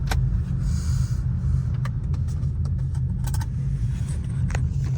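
Steady low car rumble, with a few light clicks and jingles over it.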